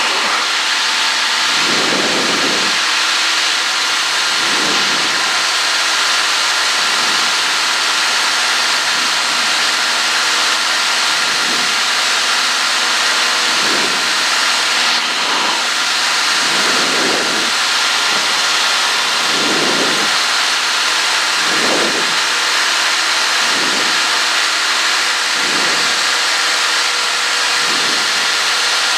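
Cockpit noise of a Cessna 152 in flight: its Lycoming O-235 engine and propeller running steadily under a strong hiss of rushing air, with soft low swells about every two seconds.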